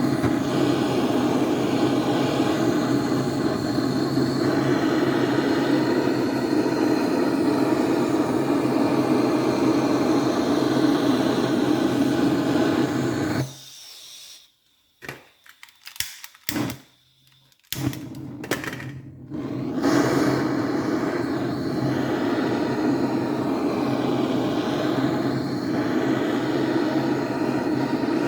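Heat gun blowing steadily, warming the aluminium crankcase's front main-bearing support so the new main bearing can be pressed in. Its whir drops out for several seconds just past the middle, with a few clicks, then runs on.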